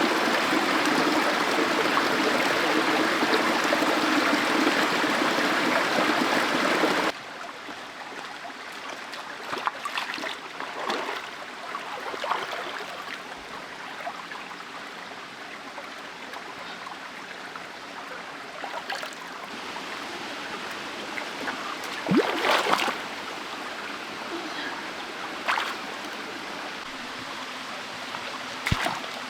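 A stream running: loud rushing water for about the first seven seconds, then it cuts suddenly to quieter running water with a few scattered short knocks or splashes.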